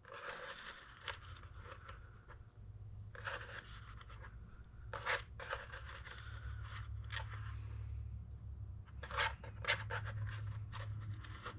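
Faint small clicks and scrapes of greased steel needle-bearing rollers being set by hand, one beside another, into a cush drive bearing, over a steady low hum.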